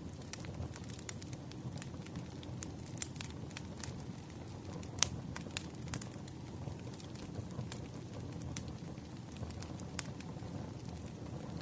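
Wood fire crackling: irregular sharp pops and snaps over a low steady rumble, with a louder pop about five seconds in.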